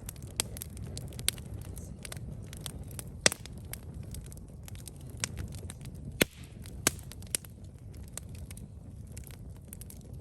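Campfire crackling: many small irregular pops and snaps of burning wood, with a few louder pops, over a steady low rumble.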